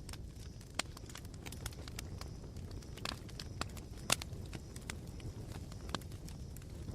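Campfire embers crackling: irregular sharp pops and snaps, one louder pop about four seconds in, over a low steady rumble.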